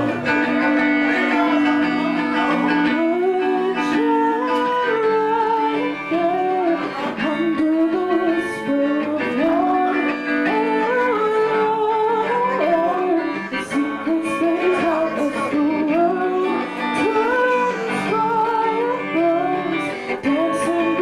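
A live rock band playing an instrumental passage, led by guitars: a melodic line wanders up and down over held chords, with occasional light cymbal-like ticks.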